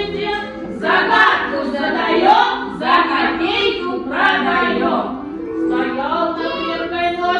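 A group of young children singing a Russian folk song together in phrases, with steady held notes of accompaniment underneath.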